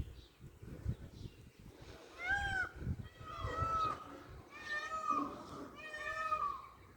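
Indian peafowl (peacock) calling: a series of about four pitched calls, each rising and then falling in pitch, starting about two seconds in.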